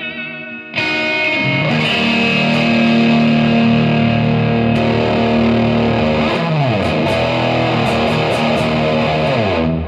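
Gibson Les Paul electric guitar through a Third Eye overdrive pedal into a Marshall amp: a loud, distorted chord is struck about a second in and held. Notes slide down in pitch in the second half, and the sound is cut off near the end.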